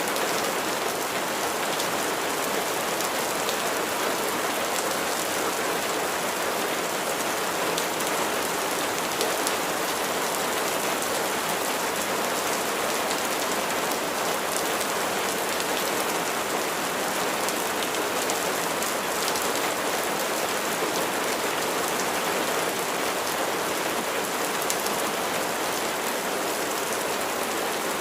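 Steady rain falling and pattering on a surface, an even hiss with many small scattered drop impacts.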